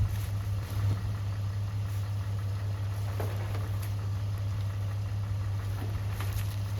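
A motor running steadily with an even low hum, with a few faint ticks over it.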